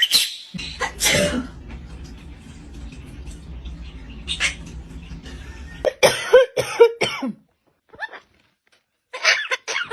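A pet talking bird mimicking a human cough: rasping cough-like bursts at the start and about a second in, then short squawky pitched calls around six seconds in and again near the end.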